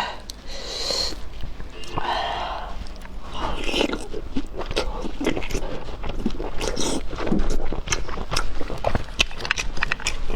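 Close-up chewing and mouth noises of a person eating: many short wet clicks and smacks, with a few louder slurping or crunching stretches in the first few seconds.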